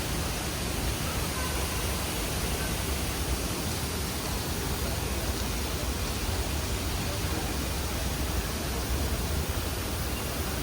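Steady rushing cabin noise of an Airbus A320 airliner, an even roar strongest at the low end.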